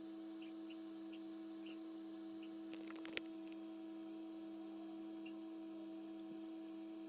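Steady electrical hum throughout, with a short cluster of sharp clicks and rattles about three seconds in from wiring-harness connectors and wires being handled.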